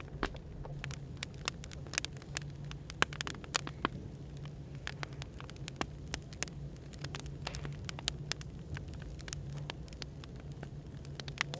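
Wood fire crackling, with irregular sharp pops and snaps, over a steady low hum of background white noise.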